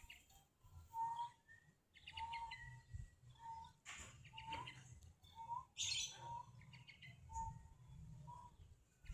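Birds calling: a short whistled note repeated about once a second, with three bursts of quick high chirps.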